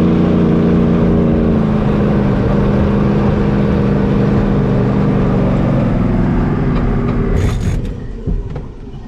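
The truck's V8 engine is held at full throttle at high, steady revs. Near the end the engine note drops off sharply after a brief crackle.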